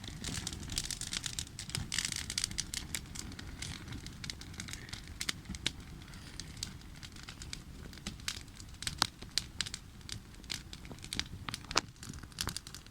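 Wood campfire burning, with many irregular crackles and pops over a low steady rumble.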